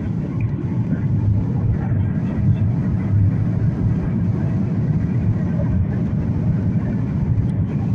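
Boeing 737 cabin noise: the steady low rumble of the jet engines and airflow, heard from inside the passenger cabin during descent.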